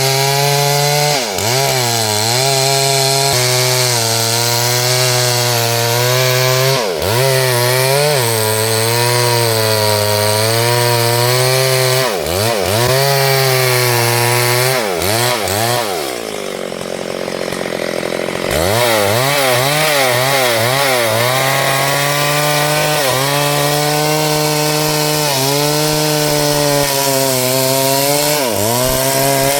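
STIHL 72cc two-stroke chainsaw running at high revs through wood, its pitch sagging and recovering several times under load. About halfway through it drops to idle for a couple of seconds, then revs back up and keeps cutting.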